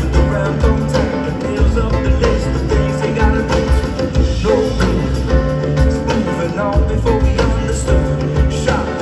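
Live band playing a song: a steady bass line and drum beat, with singing over it.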